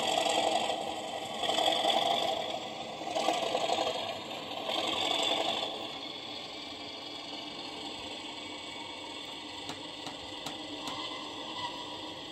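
Sound decoder of an Accurascale OO gauge Class 37 model locomotive playing its diesel engine start-up sound through the model's small speaker. There are four loud surges about a second and a half apart, then a quieter steady running sound with occasional clicks. The owner reports that this loco's start-up sequence is faulty.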